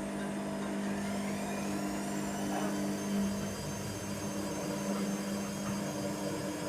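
Hoover Nextra HNWL7146 washer-dryer running mid-cycle: a steady motor hum with a faint high whine above it.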